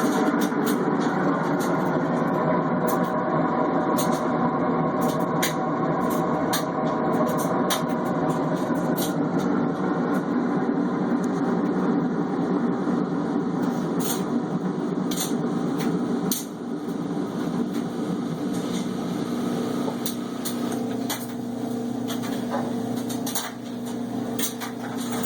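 Whirlpool Cabrio top-loading washing machine running with a loud noise: a dense mechanical rumble and hum with scattered clicks. It eases about sixteen seconds in and settles to a steadier hum near the end.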